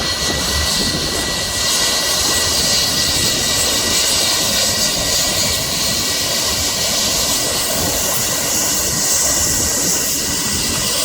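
Jet aircraft engine running, a loud steady roar with a high-pitched whine.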